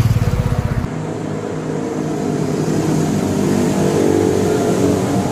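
Heavy low buffeting rumble that cuts off abruptly about a second in, then a sport motorcycle engine running and revving up, its pitch climbing slowly.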